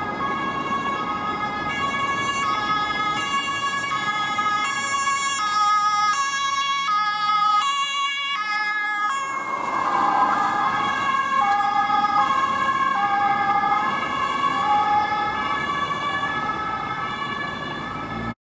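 German police patrol car's two-tone siren (Martinshorn) alternating between two notes. Its pitch creeps higher as the car approaches, then drops about nine seconds in as it passes.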